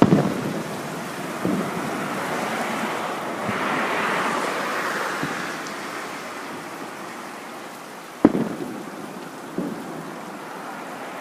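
Fireworks shells bursting overhead: a heavy boom right at the start, a lighter one about a second and a half later, then a loud boom and a smaller one late on, each trailing off in a rumbling echo. Between the bursts is a steady rushing hiss that swells in the middle.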